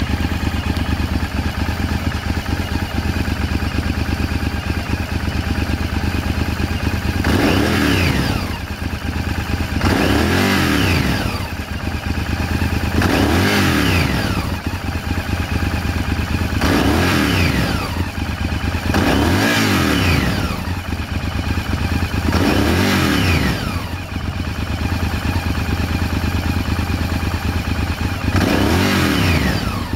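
Honda VTR1000F's 90-degree V-twin running through an aftermarket Yamamoto Racing exhaust: a steady idle, then, from about seven seconds in, seven short throttle blips a few seconds apart, each revving up and dropping back to idle, with a longer pause before the last.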